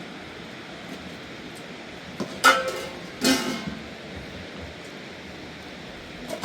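Steady hiss of heavy rain, with two sharp knocks about a second apart that ring briefly, and a smaller knock near the end.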